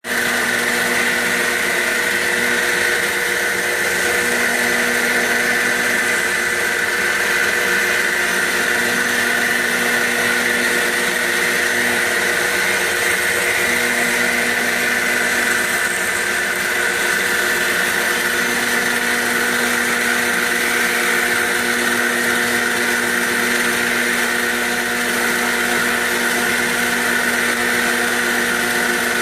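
CNC machine running a roughing cut: a steady high-pitched spindle whine over the noise of the cutter removing material, unchanging throughout.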